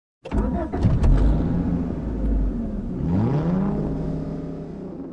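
1971 Plymouth Road Runner's 383 V8 engine running and revving: it comes in suddenly with a few sharp clicks, rises in pitch, drops back, rises again about three seconds in, then holds and fades.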